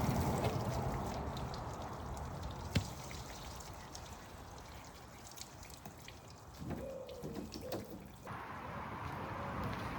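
Water splashing and dripping, with scattered small clicks and one sharp click about three seconds in.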